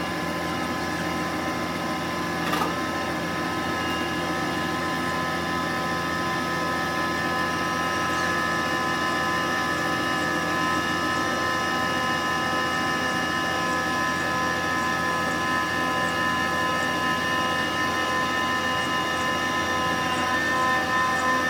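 A vehicle engine running steadily at an even speed, with one short knock a few seconds in.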